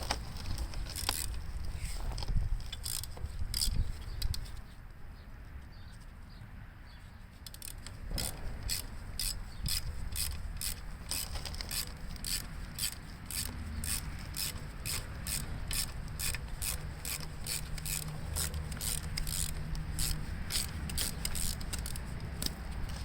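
A socket ratchet clicking in an even rhythm, about two clicks a second, as a bolt is turned with a 3/4-inch socket. A few louder metal knocks come in the first few seconds, before a short lull.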